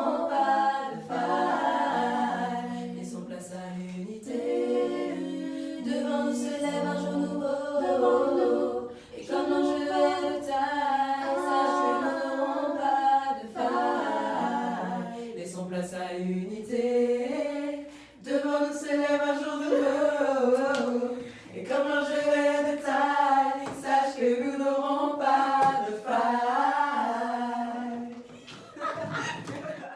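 A cappella vocal group singing a hymn-style song in parts, voices only, in phrases with short breaks; the singing stops at the very end.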